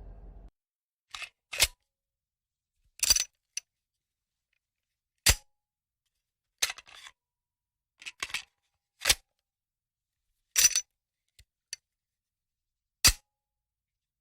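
Camera shutter sound effect: a series of sharp mechanical shutter clicks at irregular intervals, several coming as quick double clicks, with silence between them.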